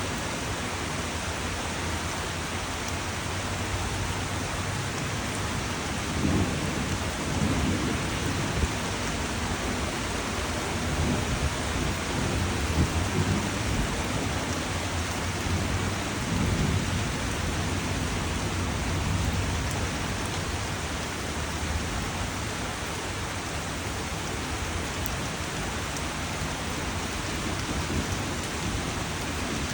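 Steady rain, an even hiss throughout, with low rumbling swelling in from about six seconds in and fading by about twenty seconds.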